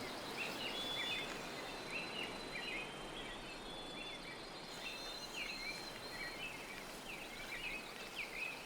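Outdoor nature ambience: many short high chirps come every half second or so over a steady background hiss, with a thin steady high whine.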